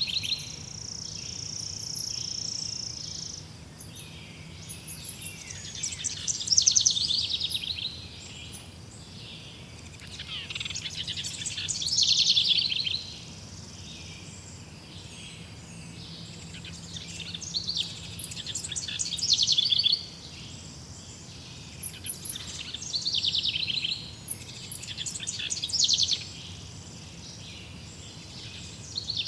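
Songbird singing, repeating a loud, rapid trilled phrase of a second or two about every five or six seconds. A steady high buzz runs under it for the first three seconds or so.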